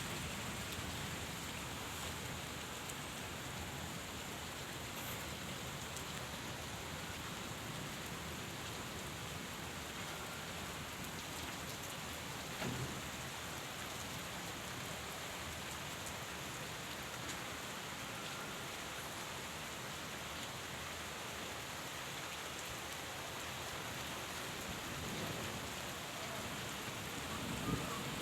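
Steady rain falling, an even hiss without a break, with one sharp tap about halfway through and another near the end.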